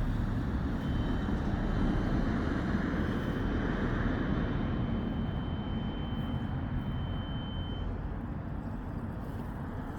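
Road traffic: a heavy vehicle's low rumble going past and slowly fading, with a thin, steady high whine from about a second in until near the end.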